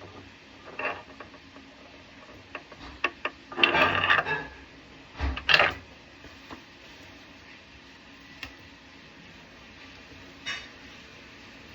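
Intermittent clinks, knocks and scraping of plumbing tools and fittings being handled while fitting a faucet. There is a denser clatter about four seconds in and a heavier knock with a low thud about five and a half seconds in.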